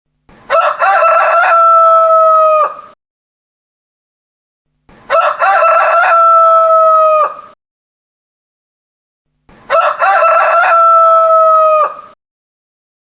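Rooster crowing three times, each crow about two and a half seconds long: a broken, stuttering start, then a long held note that drops in pitch at the very end. There is complete silence between the crows.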